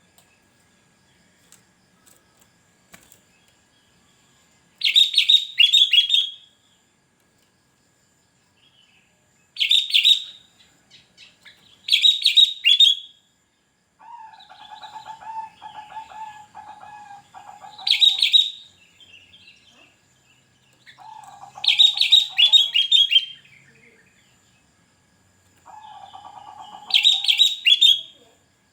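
Sooty-headed bulbul (kutilang) singing: six short, bubbly whistled phrases a few seconds apart, with a quieter, lower trilling between some of them.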